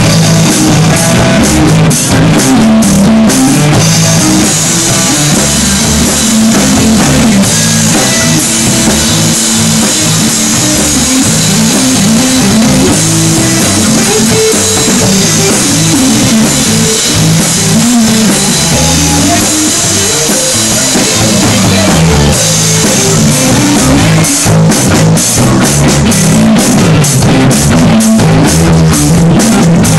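Live instrumental jazz-blues jam by an electric guitar, bass guitar and drum kit, playing loud and continuously without a break.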